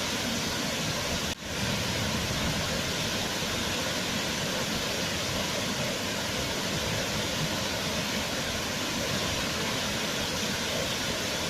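Waterfall: a steady rush of falling water, with a brief dip in the sound about a second and a half in.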